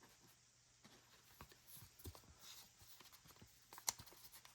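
Faint, scattered soft clicks and rustles of trading cards being handled and slid into plastic card sleeves, with one sharper tick about four seconds in.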